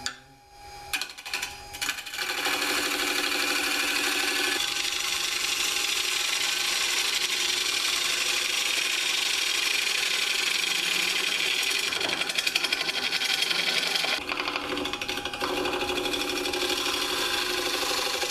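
Jet mini 1221 wood lathe spinning a dry hard maple bowl blank while a bowl gouge cuts into it: the motor's hum under a dense hiss of the cut, with a wavering, pulsing tone as the uneven blank turns. A few knocks come in the first two seconds before the steady cutting begins, and the cut breaks off briefly about fourteen seconds in.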